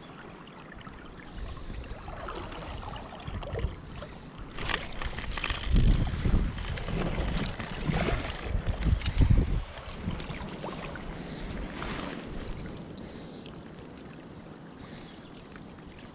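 Running river water, with a spell of louder irregular splashing in the middle that dies back to the steady flow.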